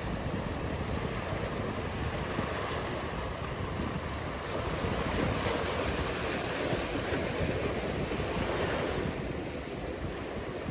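Ocean surf: a continuous wash of breaking waves that builds from about four seconds in and eases shortly before the end.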